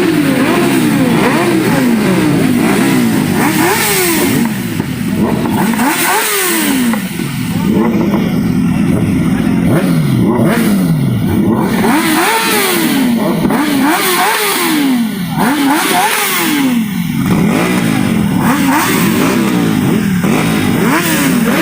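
Superbike engines revved hard again and again, each rev climbing quickly and dropping back, with several revs overlapping at once.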